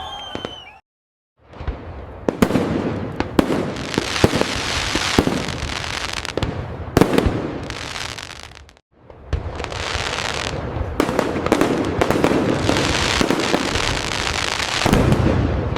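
Fireworks display: a dense run of sharp bangs and booms over continuous crackling, breaking off abruptly into brief silence twice, about a second in and about nine seconds in.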